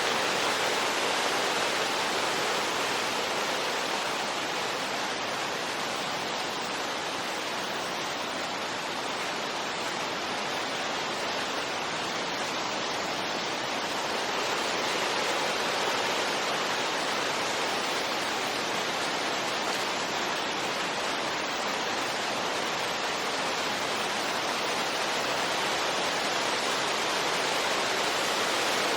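Steady wind noise, a dense even hiss with no gusting bursts, easing slightly about a third of the way in and swelling back again after the middle.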